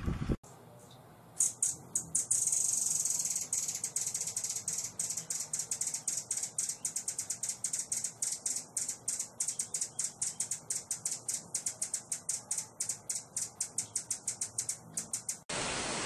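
A bird singing a long rattling series of fast, sharp, high-pitched ticks, about five a second, which starts a second or so in and stops abruptly near the end.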